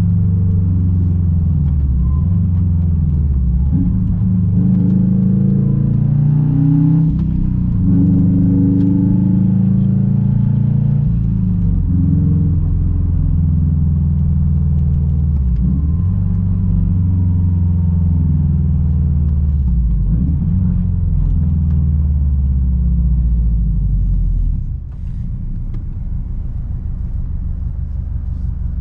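A 2006 Subaru WRX STI's turbocharged flat-four engine with a straight-pipe exhaust, pulling through several gear changes: the engine note climbs, then drops back at each shift. About 25 seconds in, it falls to a quieter, steady low rumble.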